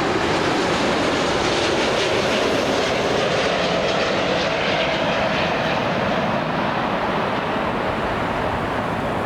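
Jet airliner passing by with its engines running: a loud, steady rushing noise with a faint whine, whose high end fades in the second half.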